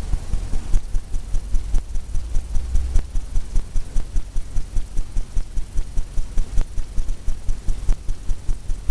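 Fan brush loaded with white oil paint tapping rapidly against a stretched canvas, a steady run of low thumps at about five a second, as highlights are dabbed onto a wave.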